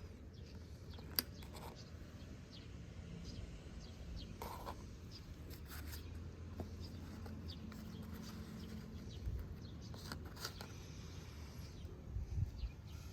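Scattered light clicks and taps of tools and metal engine parts being handled during engine disassembly, with a sharp click about a second in and a few more near the end, over a low steady hum.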